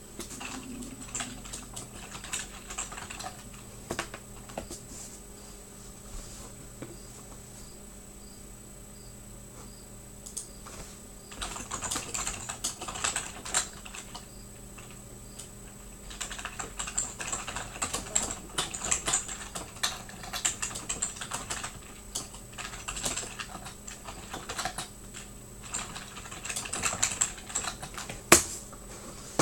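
Typing on a computer keyboard: runs of quick key clicks starting about eleven seconds in and again from about sixteen seconds on, over a faint steady hum.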